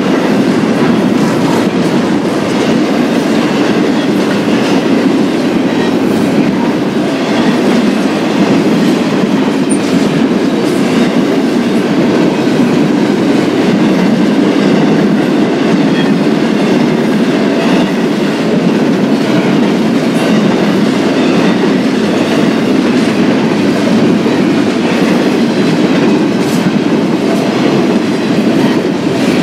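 Double-stack intermodal freight train's well cars rolling past, steel wheels on rail giving a steady clickety-clack.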